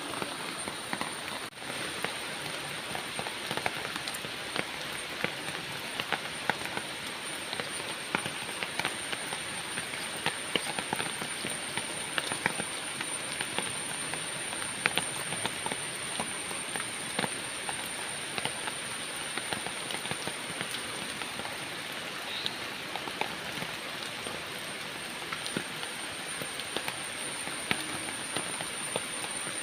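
Steady rain falling, with many small drop ticks scattered through it and a steady high-pitched tone behind.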